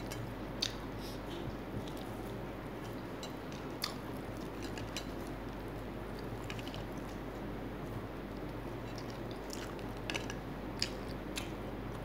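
Close-up mouth sounds of someone chewing fried chicken, with scattered short wet clicks over a steady background hiss.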